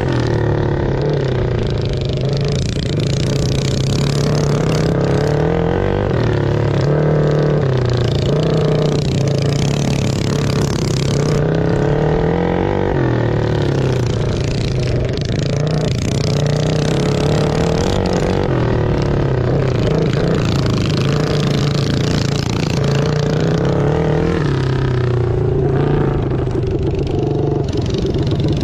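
Engines running and revving, their pitch rising and falling every second or two as the throttle is opened and closed.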